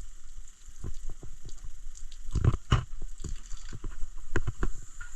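Water splashing over hands as they are washed, with irregular splashes and knocks.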